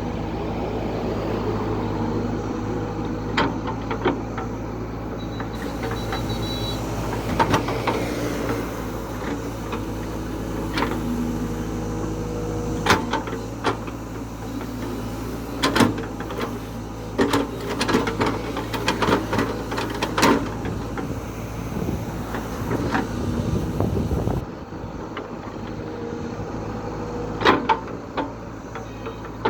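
JCB backhoe loader's diesel engine running steadily under work, with a scatter of sharp metallic clanks and knocks from the bucket and arm. The engine's low drone falls away about five seconds before the end.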